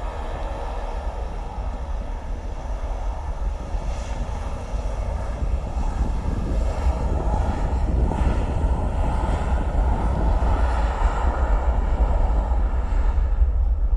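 Airbus A320 twin jet engines at takeoff power: a steady deep rumble with a whining tone, growing louder through the second half.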